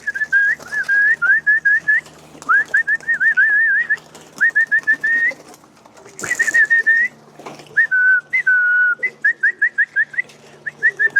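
A person whistling a pigeon feeding call: runs of short, quick, rising notes repeated in bursts, with a couple of longer held notes. A brief rush of noise comes about six seconds in.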